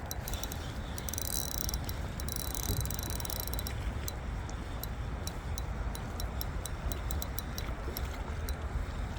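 Steady low wind rumble on the microphone, with scattered small sharp ticks.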